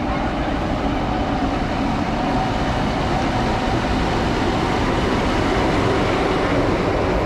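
Steady rumble of a running vehicle with a few faint steady tones over it.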